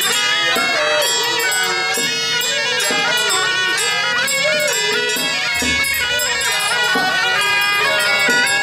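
Suona shawms playing a loud, reedy traditional melody with sliding, bending notes.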